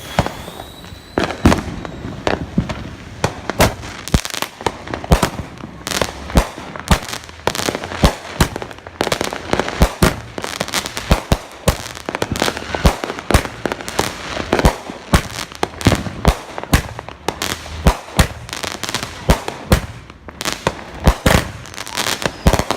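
Fireworks and firecrackers going off, a dense, irregular string of sharp bangs and cracks, often several a second and overlapping, with no let-up.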